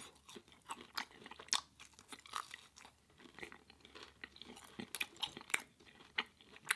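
Close-miked chewing with irregular wet clicks and crunches as a person eats with their mouth.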